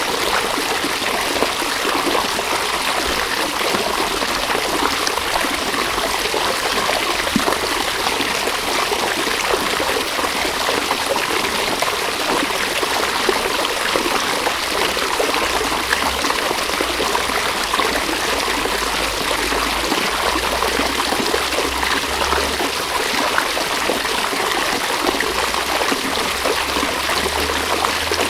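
River water running steadily, an even rush of flowing water.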